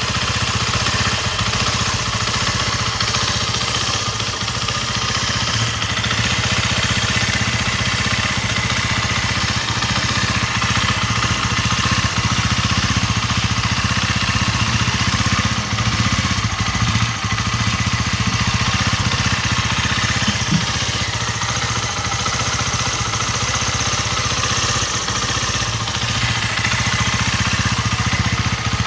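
RKS 150 Sports Evo motorcycle engine idling steadily, with no revving.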